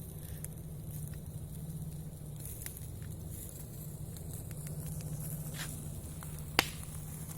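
Campfire crackling: scattered small pops and snaps, with one sharp, loud pop about six and a half seconds in, over a steady low hum.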